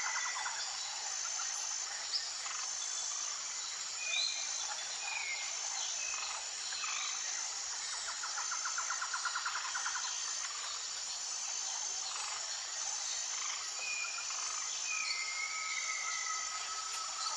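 Natural outdoor ambience: insects keep up a steady, high, evenly pulsing buzz, while birds give short scattered chirps and whistled glides. A rapid trill comes a little after the middle.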